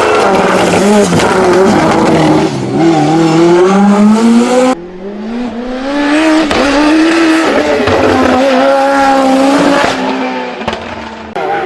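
Ford Escort Mk2 hillclimb race car's engine under hard acceleration. Its pitch climbs steeply as it revs up through the gears and falls back at each shift. The sound drops off abruptly about five seconds in, then climbs again.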